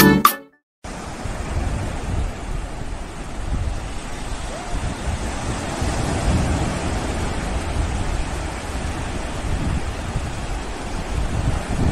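Sea surf washing onto a beach, with wind rumbling on the microphone.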